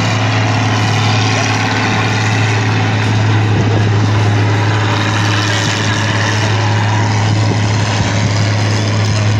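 Heavy engine of a tractor-pull vehicle running steadily, a loud constant drone that holds one pitch throughout.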